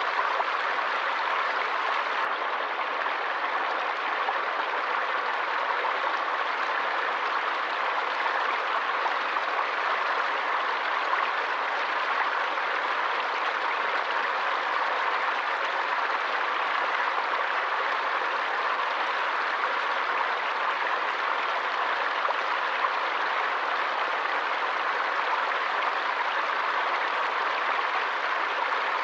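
Forest stream running steadily: a constant, even rush of flowing water.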